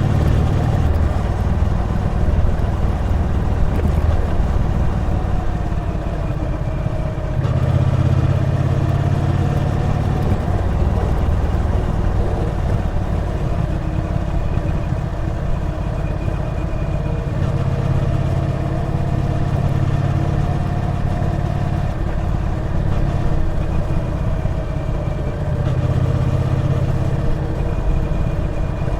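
Triumph Bonneville T120's parallel-twin engine running steadily on the road, its pitch rising and falling a little with the throttle.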